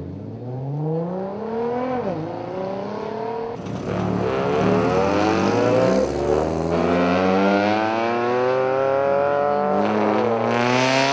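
Car engines accelerating hard on a race track, pitch climbing through the gears with a sharp drop at a gear change about two seconds in and another near the end; more than one engine seems to rise at once in the middle.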